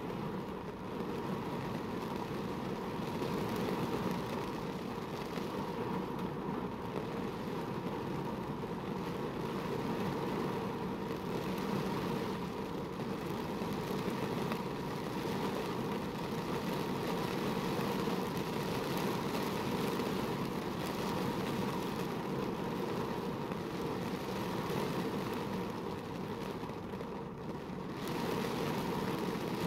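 Heavy rain falling steadily on a car, heard from inside the cabin, over a steady low rumble.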